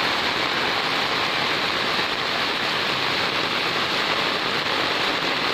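Heavy monsoon rain pouring steadily onto wet ground and puddles, an even hiss with no letup.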